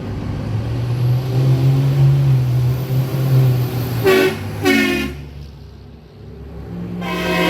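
A vehicle engine runs with a steady low drone, then a vehicle horn gives two short honks about four seconds in and a longer blast near the end.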